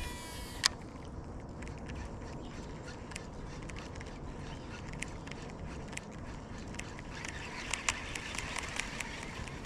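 Steady rush of river water, with scattered light clicks and ticks.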